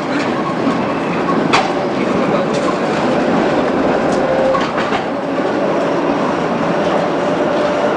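Tram running past on street track, its wheels clicking over rail joints and pointwork, with a steady whine coming in about halfway.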